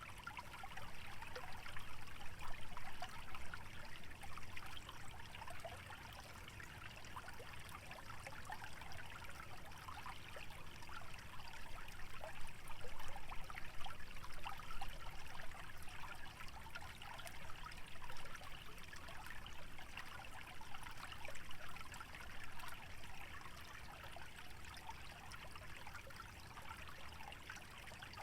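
Small stream trickling and bubbling steadily over shallow wetland ground, the water babbling swelling and easing a little every several seconds, with a low rumble underneath.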